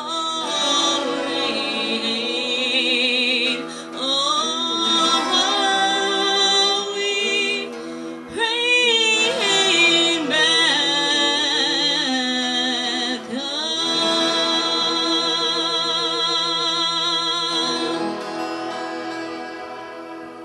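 Music: a singing voice holding and gliding between long, wavering notes over a steady sustained drone, fading out near the end.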